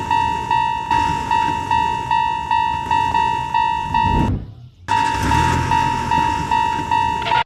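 Japanese railroad crossing warning bell ringing, a repeated ding of about three strikes a second that cuts out briefly about four seconds in and then starts again, with a low rumble underneath.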